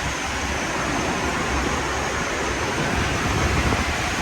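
Chilled-water air handler running, a steady rush of fan and moving air.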